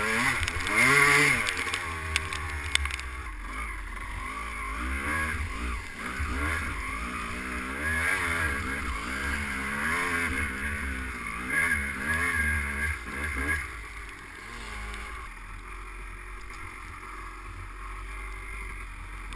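250 cc two-stroke motocross bike engine revving up and down repeatedly as the bike is ridden, over a steady rush of wind noise. The loudest rev comes about a second in, and the engine is quieter from about three-quarters of the way through.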